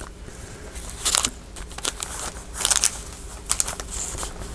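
Paper scraps crinkling and rustling as they are handled and sorted by hand, in a few short crackly bursts: about a second in, just past halfway, and again shortly after.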